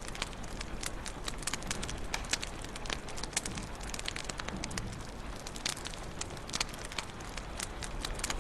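Wood fire crackling in a fireplace: a steady low rumble of flames with frequent irregular sharp pops and snaps.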